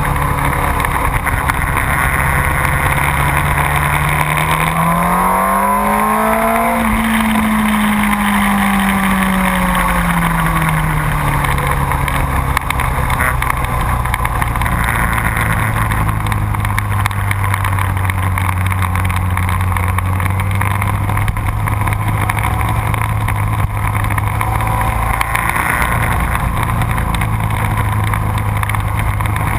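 Motorcycle engine running at track speed. The revs climb about five seconds in, then fall away slowly and hold steady.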